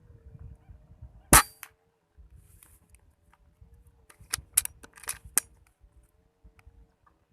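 Air rifle shot: one loud sharp crack about a second in, then a quick cluster of smaller sharp cracks and clicks a few seconds later.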